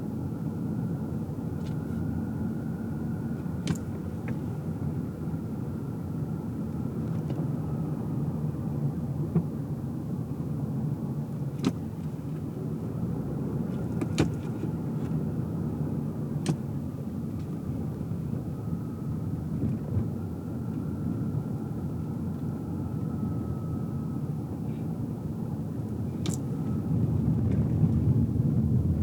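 Car driving, heard from inside the cabin: a steady low rumble of road and tyre noise with a faint wavering whine, and a few sharp clicks or small knocks scattered through. The rumble grows louder near the end.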